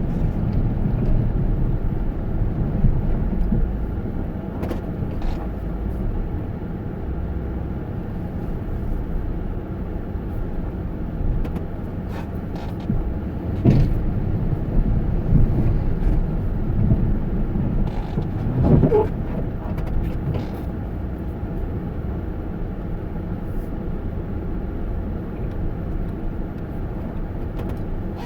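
Steady low rumble of a motor vehicle, with a few scattered knocks and clicks.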